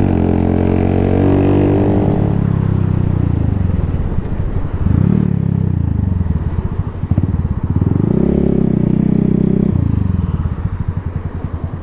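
125cc cruiser motorcycle engine running under way, its pitch rising and falling as the rider accelerates and changes gear, with two swells about five and eight seconds in and a drop near the end.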